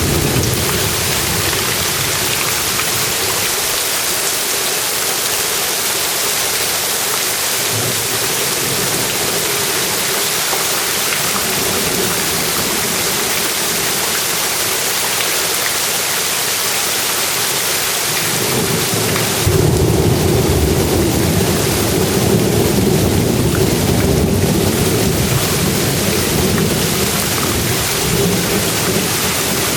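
Steady rain falling, a loud even hiss. About two-thirds of the way in it grows louder and a low rumble of thunder rolls in underneath, carrying on toward the end.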